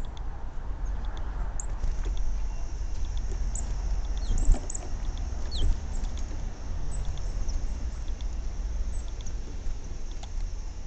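Small garden birds chirping, with short high calls scattered through, over a steady low rumble. There is a single knock about four and a half seconds in.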